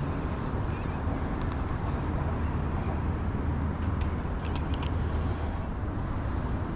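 A boat's motor running steadily, with a low, constant rumble, and a few faint clicks partway through.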